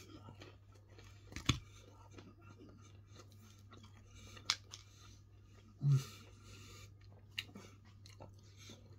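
A person chewing crispy breaded fried chicken tenders close to the microphone, with soft crunches and scattered sharp mouth clicks. A short low sound comes about six seconds in, over a steady low hum.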